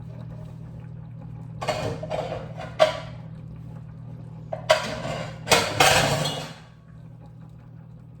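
A utensil clinking and scraping against a glass baking dish in bursts, the loudest and longest scrape about five to six and a half seconds in, over a steady low hum.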